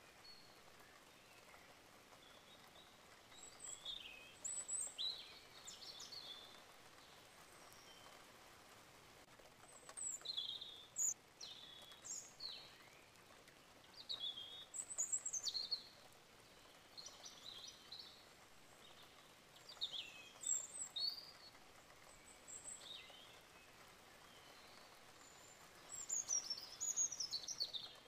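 Birds chirping: clusters of short, high, falling chirps come every few seconds over a faint steady hiss.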